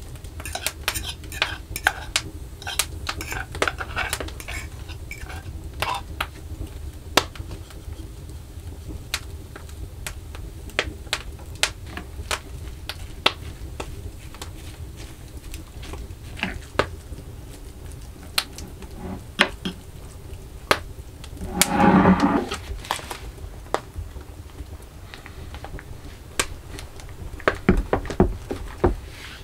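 Kitchen utensils and dishes clinking and knocking irregularly during food preparation, with one louder, longer rasping sound about two-thirds of the way through.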